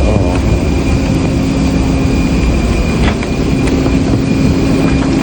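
Steady low rumble and hum of a parked airliner during boarding, with a thin high tone over it and a few light clicks about three seconds in.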